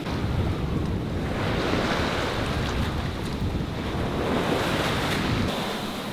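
Sea water rushing and washing along the hull of a sailing yacht under way, with wind buffeting the microphone; the noise swells and eases without any engine tone.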